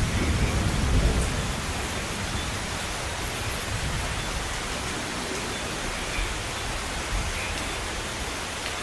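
Steady, heavy rain hissing, with a low thunder rumble that dies away in the first second or two.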